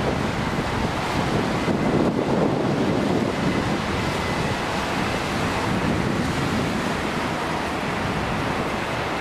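Jet airliner engines running, a steady rushing roar with a faint high whine that rises slightly near the end.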